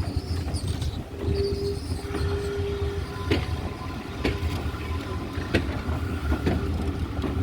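A train's coaches rolling past at a steady pace over a low rumble, the wheels clicking over rail joints about once a second. Brief squealing tones from the wheels come and go.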